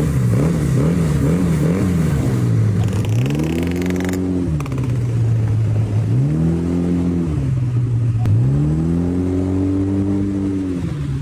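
Engine idling, blipped quickly a few times, then revved three times, each rev climbing, holding briefly and dropping back to idle.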